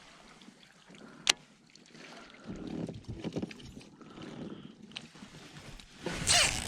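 Faint sounds aboard a fishing kayak: soft water sloshing and handling noises, with a single sharp click about a second in and a short hiss near the end.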